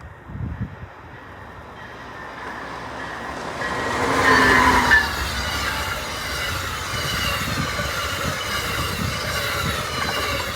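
Amtrak passenger train passing at speed: the rumble builds to its loudest about four to five seconds in, with a brief pitched tone at the peak. After that, a steady rush with high-pitched wavering squeal from the wheels continues as the cars go by.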